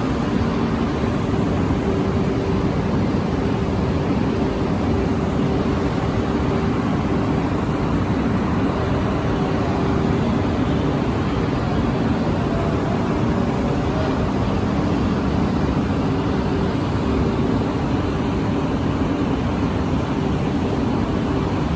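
Steady running noise of a Shinkansen train: a constant drone with a low hum, unchanging in level throughout.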